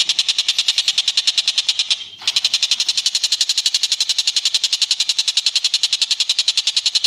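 A bird giving a rapid, high rattling trill of more than ten notes a second, kept up without pause apart from a short break about two seconds in.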